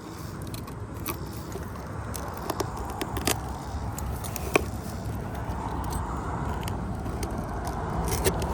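Utility knife cutting through an asphalt three-tab shingle along a scored line: scraping and crackling with sharp clicks, two louder snaps about three and four and a half seconds in. A low steady rumble underneath grows louder near the end.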